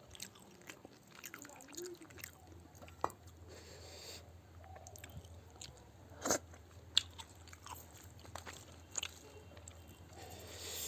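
Close-miked chewing and biting of a rice-and-curry meal, with wet mouth sounds and scattered sharp crunches, the loudest about six seconds in.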